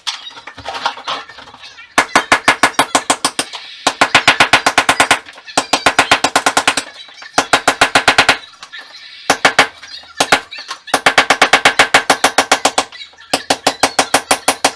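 Power hammer chiselling into a masonry wall to cut a channel for pipework. It fires in rapid, very loud bursts of blows, about a dozen a second, each burst lasting one to two seconds with short pauses between.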